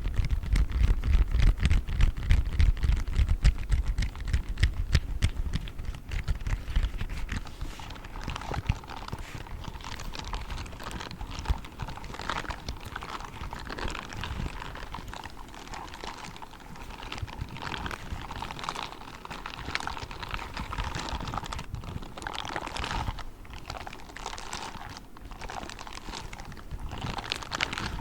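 Grey spiked gloves scratched and tapped rapidly up close, giving a dense run of fast crackly clicks. For the first few seconds there is also heavy low thumping.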